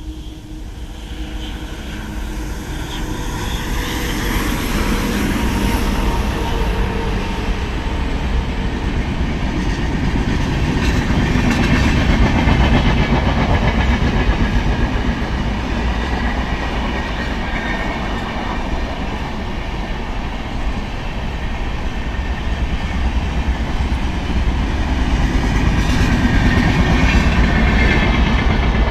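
A passing train: the continuous rumble and rush of wheels on rails, growing louder over the first several seconds and staying loud as the coaches run by.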